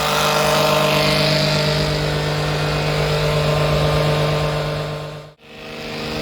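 Small electric oil extractor pump motor running steadily with an even hum while it sucks old engine oil out through the dipstick tube. The hum cuts out briefly about five seconds in, then starts again.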